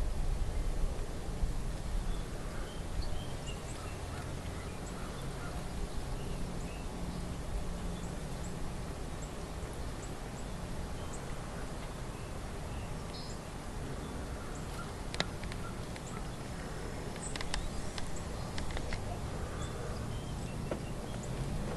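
Outdoor ambience with a steady hiss and faint, scattered short bird chirps. A few sharp clicks come about two-thirds of the way through.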